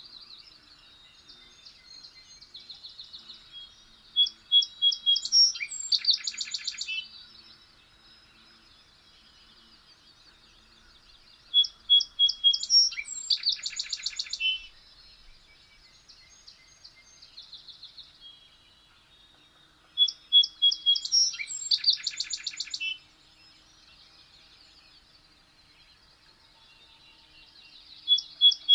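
A songbird singing the same short phrase of quick high notes ending in a fast trill, repeated about every eight seconds, with fainter bird chirps in between.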